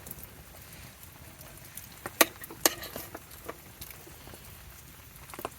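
Steady patter of rain mixed with sleet, with a scatter of sharp taps, the two loudest about half a second apart a little past two seconds in.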